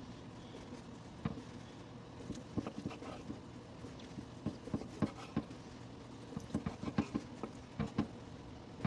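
Knife chopping raw chicken thighs on a cutting board in irregular taps, over the steady hum of a washer and dryer running.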